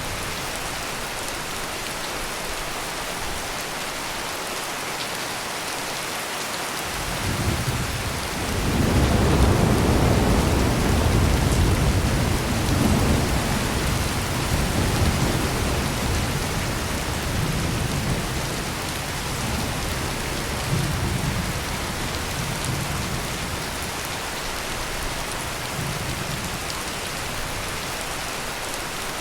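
Heavy rain falling steadily with a long roll of thunder. The thunder starts about seven seconds in, is loudest a couple of seconds later, then rumbles on in swells and fades away over the next fifteen seconds.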